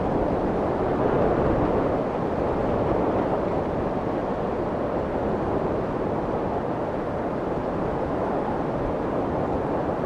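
Steady low, rumbling white noise for soothing a baby, strongest in the low and middle range and rolling off in the highs, swelling slightly in loudness about a second in.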